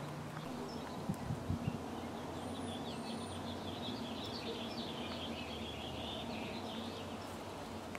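Small birds chirping and twittering, a quick run of calls from a couple of seconds in until near the end, over a steady low outdoor hum. A few soft knocks about a second in.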